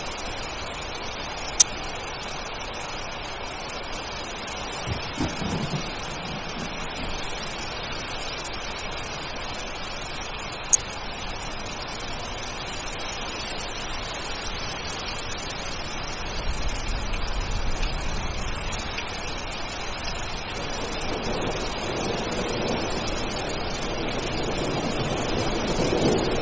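Steady rainfall hissing throughout, with a couple of sharp ticks; near the end a low rumble of thunder swells and builds.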